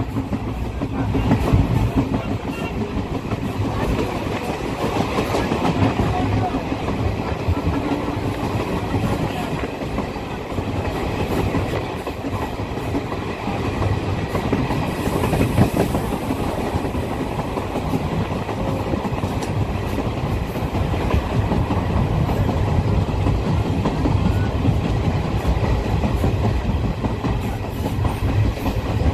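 Moving passenger train heard from an open carriage window: a steady running noise of wheels clattering over the rails, with rushing air.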